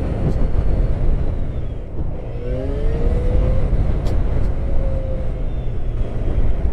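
Motorcycle riding in traffic: steady low rumble of engine and wind, with a rising engine note about two and a half seconds in as it accelerates.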